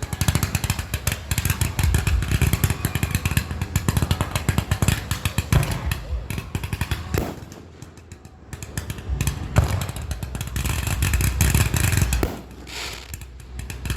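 A loud engine running, with rapid firing pulses. It drops back twice, once about halfway and again shortly before the end, then picks up again.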